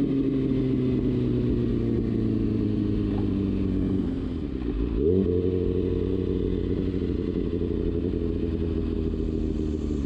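Kawasaki Ninja ZX-6R inline-four sportbike engine under way, its steady note slowly falling as the bike eases off. About four seconds in the revs dip briefly, then jump up sharply and settle at a higher pitch, as in a downshift.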